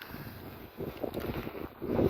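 Wind buffeting the microphone, a gusty rushing noise that swells and eases.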